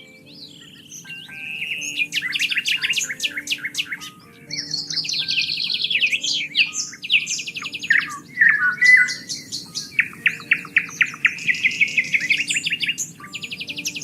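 Several songbirds singing in fast trills and repeated chirps, one phrase after another with short gaps, over soft background music holding long low notes.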